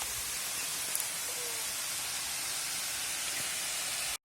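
Waterfall water rushing, a steady even hiss.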